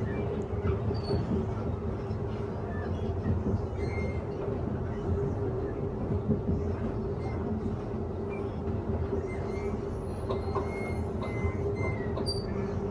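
Interior of a Queensland Rail electric suburban train running along the track: a steady low rumble of wheels on rails with a constant hum, and a few faint high squeaks near the end.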